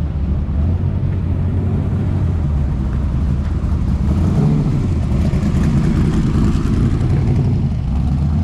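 A car engine running close by with a steady low rumble that grows a little fuller and louder in the middle.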